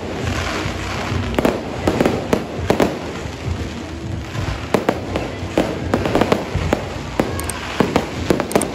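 Aerial fireworks display: a rapid, irregular series of bangs and crackling bursts over a constant rumble.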